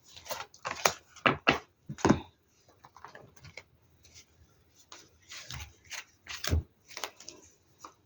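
Deck of tarot or oracle cards being shuffled and handled, with irregular soft taps and rustles as cards are drawn and laid on a table; a few louder taps a second or two in and again past the middle.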